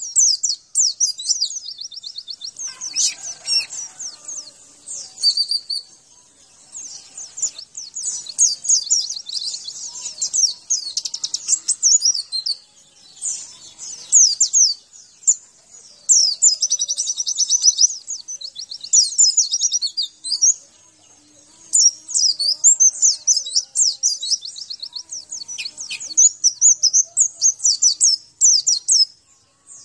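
White-eye (pleci) song: a long, fast, high-pitched twittering of rapid trills and chirps, nearly continuous with a few short lulls, as used for a masteran recording to set other white-eyes singing.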